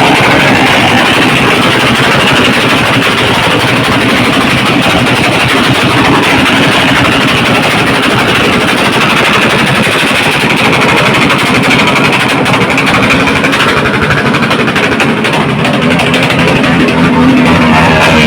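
Vehicle engines revved through their exhaust mufflers, making a continuous loud exhaust noise without pauses.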